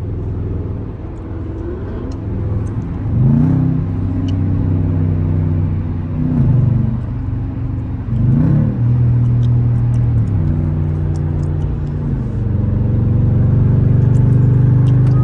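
Car engine pulling hard and easing off in turns: its pitch climbs about three seconds in and again about eight seconds in, drops back in between, and holds steady and loudest near the end.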